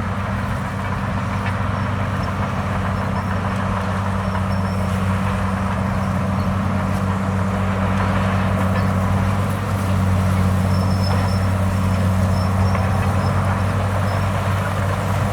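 Large diesel engine of heavy earthmoving equipment running steadily with a low, even drone, with faint short high squeaks now and then.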